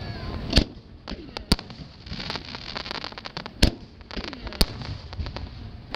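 Aerial fireworks shells bursting: several sharp bangs about a second apart, with a stretch of dense crackling in the middle.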